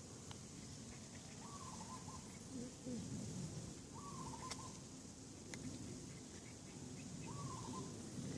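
A bird calling three times, a short call with a stepped, falling pitch repeated every few seconds, over a steady low outdoor rumble.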